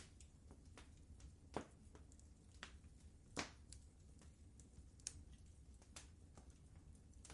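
Wood fire in a fireplace crackling softly: irregular pops and snaps, the strongest about three and a half seconds in, over a low steady rumble.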